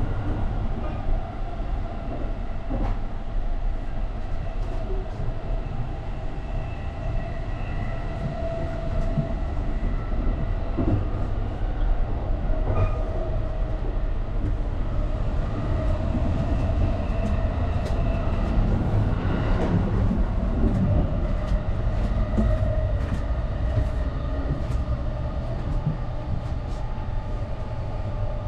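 Interior running sound of the 285 series Sunrise Izumo/Seto sleeper train, heard inside a compartment: a steady low rumble of wheels on rail with a faint steady whine. Light clicks come here and there, most often a little past the middle.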